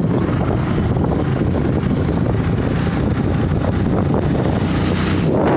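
A vehicle running along a road, with steady engine and road rumble and wind buffeting the microphone; the noise swells slightly near the end.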